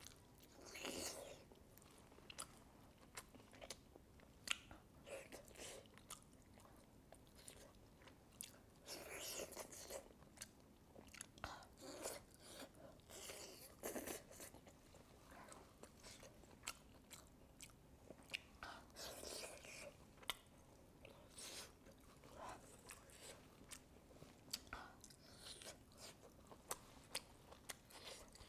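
A person chewing and biting into braised pork knuckle close to the microphone. It is quiet, with many short scattered mouth clicks and a few longer stretches of chewing.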